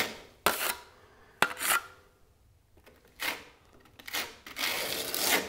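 Narrow steel spatula scraping travertine decorative plaster across a wall surface as it is spread and smoothed, in about four short strokes with pauses between, the longest near the end.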